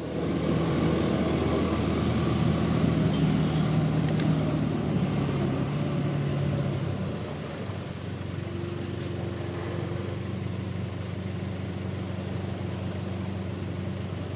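Sawmill machinery running with a steady low engine-like hum. It eases a little about seven seconds in, and a higher steady tone joins soon after.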